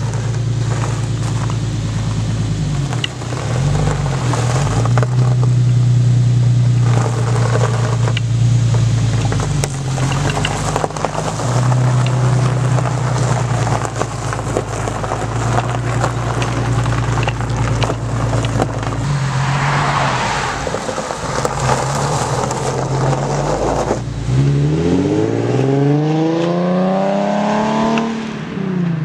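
Nissan 370Z's V6 engine idling steadily, then the car pulls away and accelerates hard down the road near the end, its engine note climbing and then falling away.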